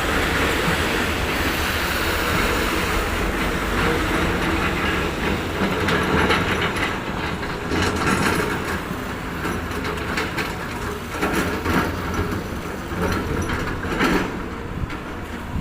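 Heavy road-construction machinery running steadily, with a low rumble and repeated metallic clanks and knocks from about halfway through.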